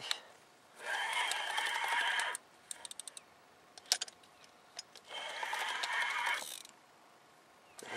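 Fishing reel being cranked to bring in a hooked fish: two bursts of steady gear whirring, each about a second and a half long, with a few sharp light clicks in between.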